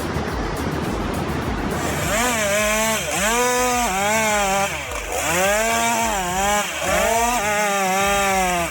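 Chainsaw running, its engine pitch rising and falling in repeated swells. It starts about two seconds in, after a stretch of noisy hiss, and cuts off abruptly at the end.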